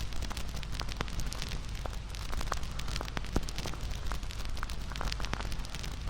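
Wood campfire burning with a steady low rumble of flames and frequent irregular crackles and pops, a few sharper snaps among them.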